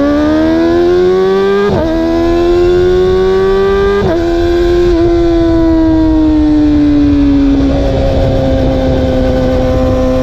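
Yamaha YZF R6 inline-four sport bike engine through an Akrapovic Racing Line full exhaust, heard on board under hard acceleration. The revs climb and drop sharply twice on quick upshifts, then the pitch falls away as the throttle eases and settles into a lower, rougher note.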